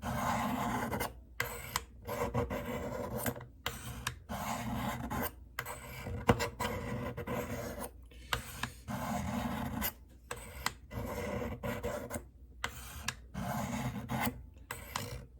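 Steel knife blade drawn in repeated strokes along the coarse ceramic stones of a Spyderco Tri-Angle Sharpmaker, a dry rasping rub about once a second with short pauses between strokes. This is the coarse stage of sharpening a dull edge, working up a burr.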